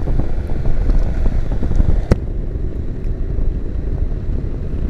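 Honda NC750X's parallel-twin engine running under way, mixed with wind and road noise, with one sharp click about two seconds in.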